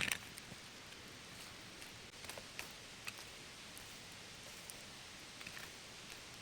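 Quiet outdoor background: a steady faint hiss with a few small scattered clicks and rustles.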